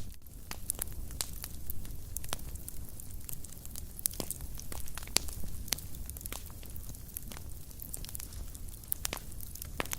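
Wood fire burning in a fireplace, crackling and popping irregularly over a low, steady rumble of the flames.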